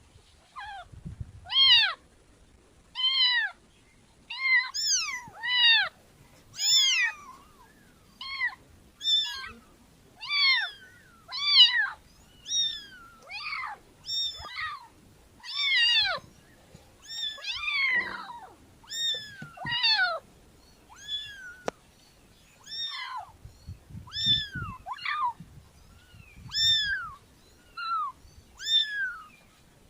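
Cats meowing over and over: short meows that rise and fall in pitch, about one a second, some overlapping one another.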